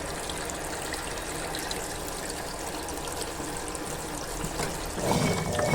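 Consul Facilite 11 kg top-loading washing machine filling with water, a steady trickling stream of water running into the drum as it fills to the set level. A louder, lower noise joins near the end.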